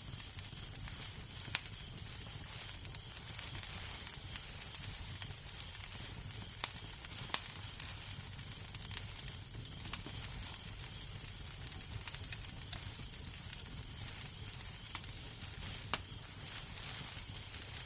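Wood fire in a fireplace crackling: a steady hiss over a low rumble, with scattered sharp pops every few seconds.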